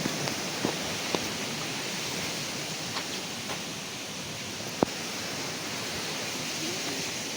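Steady rush of flowing stream water, with a few sharp clicks, the loudest about five seconds in.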